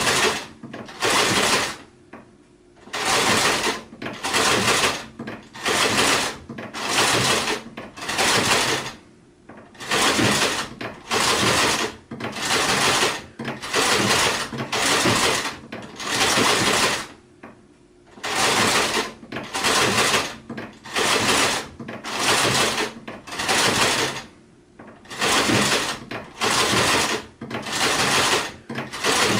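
Sewing machine stitching in short runs of about a second each, stopping and starting again repeatedly with brief pauses between.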